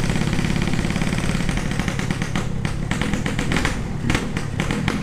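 Yamaha RX-King 135 cc two-stroke single-cylinder engine running through a 'setengah dewa' aftermarket exhaust, a drilled-out Orion-type muffler with a plate fitted, giving a loud, rapid pulsing exhaust note that shifts slightly a couple of times. The owner calls the carburettor setting very rich ('wet').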